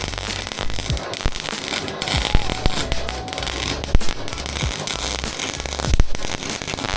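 Welding arc crackling and spitting in an irregular stream of sharp ticks, with a couple of louder pops, over background music.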